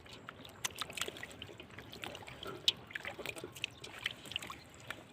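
Shallow running floodwater trickling, with many irregular small splashes and ticks.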